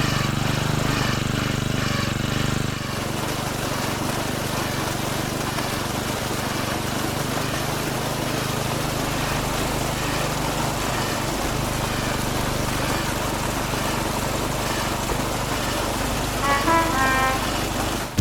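A small motor running steadily, a constant low hum under an even hiss, with a few short high tones near the end.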